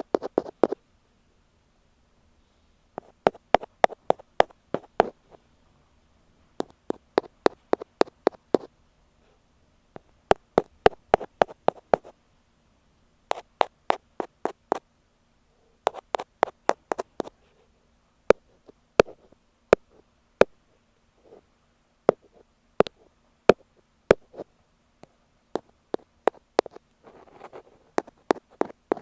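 Ear pick tapping directly on an earphone microphone: quick runs of sharp taps in clusters of about two seconds, giving way to slower, scattered single taps in the second half, with a brief soft rustle near the end.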